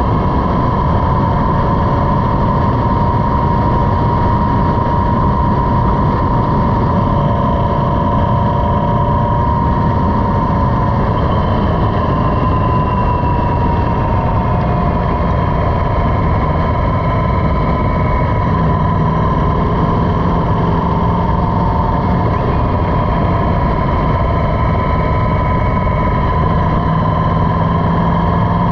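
Motorcycle engine running steadily under way, its pitch drifting only slowly.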